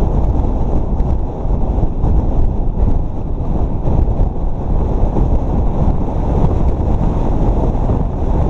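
Heavy wind buffeting the microphone while a mountain bike descends a dirt trail at speed, as a dense, steady rumble.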